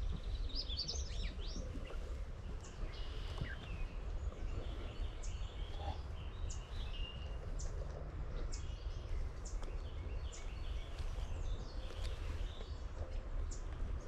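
Several songbirds calling and singing, short high chirps and quick trills coming every second or so throughout, over a steady low rumble.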